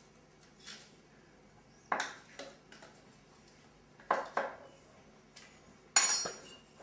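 Utensils knocking against kitchen dishes while a batter is mixed: three sharp clatters about two seconds apart, each ringing briefly.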